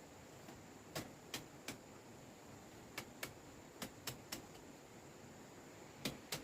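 About ten light, sharp knocks or clicks in small uneven groups (two or three close together, then a pause), over a faint steady hiss.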